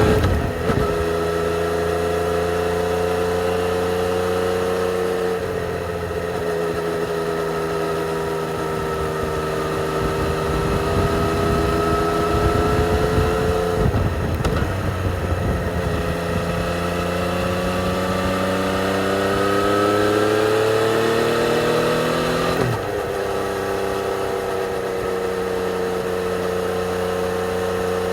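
2020 Yamaha XSR 900's 847 cc inline-three engine through its stock exhaust, heard while riding. The engine pitch rises under throttle and falls back several times. There is a sudden drop about three-quarters of the way through, and then it runs at a steady speed.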